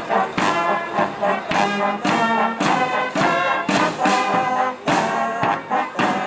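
Brass band playing a tune with trombones and trumpets over a steady beat of about two strokes a second.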